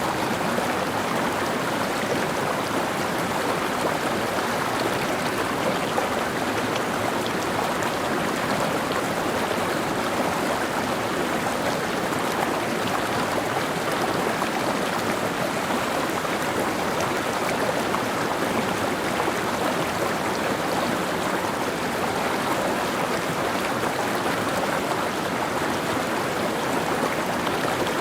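Mountain stream flowing steadily over rocks, a constant rushing and babbling of water.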